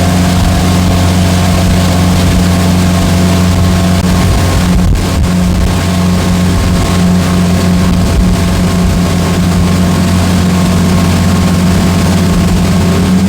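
Motorboat engine running steadily under way, a deep even hum under a steady rushing hiss, its pitch edging up slightly near the end.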